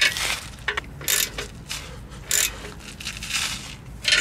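A wrench tightening the bolts of a clamp-type exhaust pipe coupling: several short, irregular bursts of metallic scraping and clicking.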